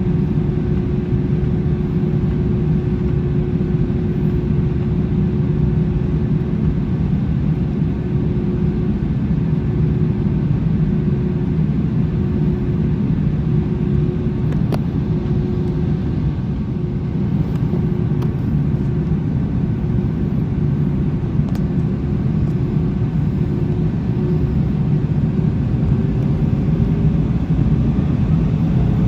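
Cabin rumble of an Airbus A321 with its jet engines at idle, a steady low hum over it. Near the end the hum starts to rise as the engines begin to spool up.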